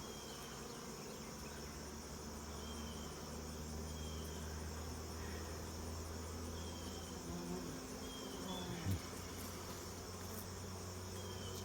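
Swarm of honeybees buzzing: a steady, even hum.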